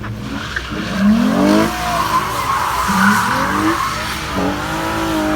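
A car spinning donuts: the tyres squeal and skid continuously while the engine revs climb three times in rising surges.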